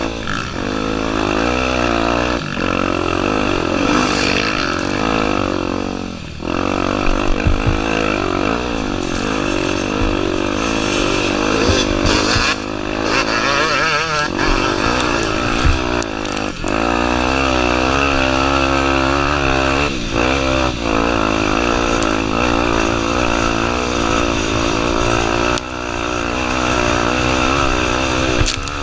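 Honda Tornado 250's single-cylinder four-stroke engine, revving up and down as the rider works the throttle and gears along the trail, with a few short knocks.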